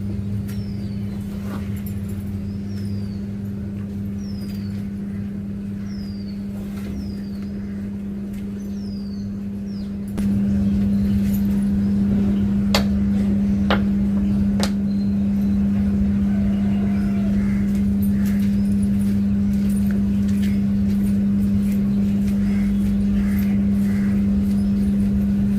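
A vehicle's motor running steadily with a constant low hum and rumble, which jumps louder about ten seconds in. Faint high falling squeaks repeat about once a second in the first several seconds, and a few sharp clicks come later.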